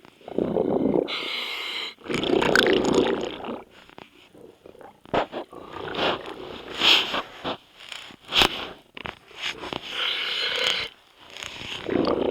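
Scuba diver breathing through a regulator underwater: a hiss on each inhale and a long burst of bubbles on each exhale, a few seconds apart, with scattered sharp clicks and taps in between.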